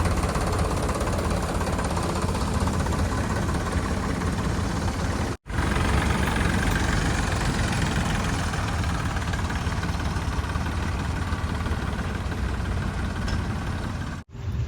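Heavy diesel machinery engines running steadily, broken by two abrupt momentary dropouts, about five seconds in and near the end.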